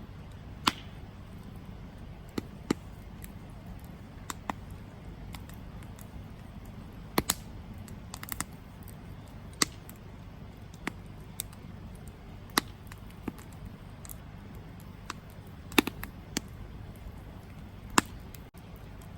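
Wood campfire crackling: irregular sharp pops and snaps, with a quick flurry of small crackles about eight seconds in, over a low steady rumble.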